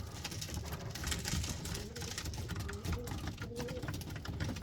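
Pigeons cooing softly in a loft, with scattered small knocks and rustles.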